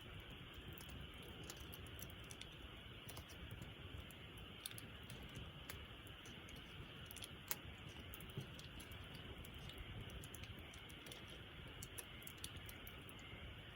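Campfire burning, with small irregular crackles and pops from the wood over a faint steady background noise.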